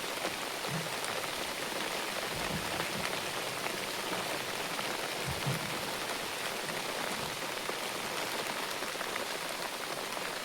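Steady hiss of rain falling, with a few faint low thuds.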